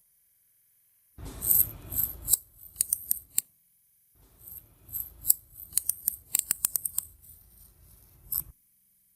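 Metal parts of a vintage manual meat grinder being handled: two spells of sharp clicks and clacks, the first opening with a short scrape, the second with a quick run of clicks near the middle.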